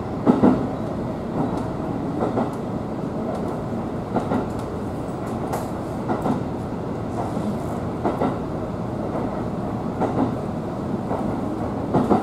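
Inside a JR Minobu Line electric train running along the track: a steady rumble of wheels on rail, with a clack from the wheels crossing rail joints about once a second.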